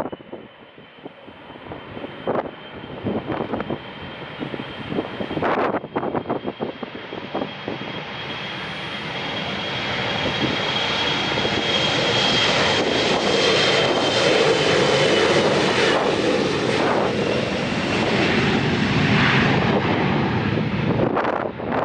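Jet airliner engines growing louder as the plane passes close by, with a steady high-pitched whine over the engine noise. Gusts of wind buffet the microphone in the first several seconds.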